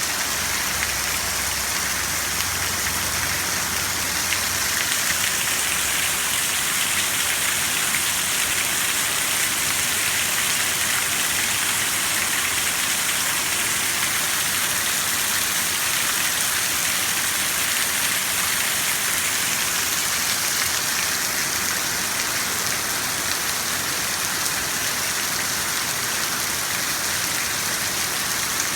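Heavy rain pouring down in a steady, dense hiss. A low rumble underneath fades out in the first few seconds.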